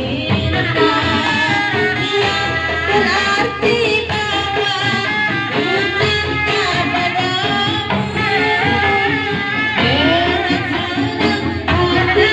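Sundanese folk ensemble music: drums under a held, wavering melody that runs without a break.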